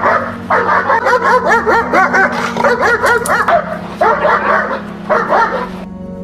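Dog barking in fast runs of sharp barks, several a second, with a short break a little past halfway and stopping shortly before the end, over steady background music.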